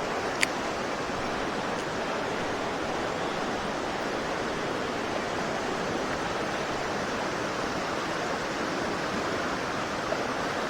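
Mountain stream, swollen by heavy rain, rushing steadily. A single sharp click sounds about half a second in.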